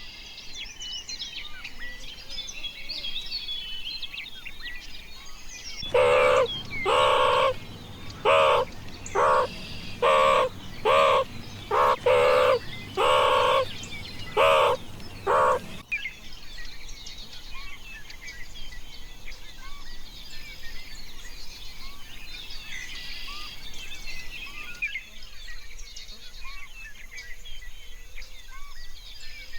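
Small birds chirping and singing. About six seconds in, a run of about a dozen loud, short calls from a farm animal lasts about ten seconds and stops abruptly, then the birdsong carries on alone.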